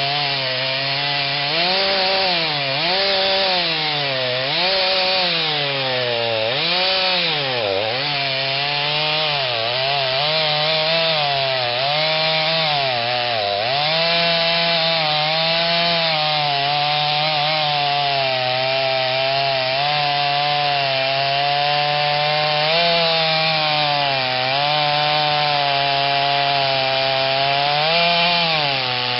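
Stihl 039 two-stroke chainsaw with a modified, opened-up muffler running at full throttle while its 28-inch bar cuts into a big oak. The engine pitch dips and recovers again and again during the first half of the cut as the chain loads up, then holds steadier with smaller dips.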